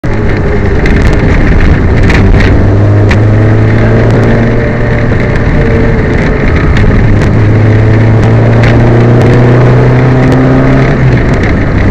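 Peugeot 205 rally car's four-cylinder engine running hard under load, heard loud from inside the car, its pitch rising and falling gently with the throttle. The car is described as misfiring. A few sharp knocks cut through, around two to three seconds in and again near nine seconds.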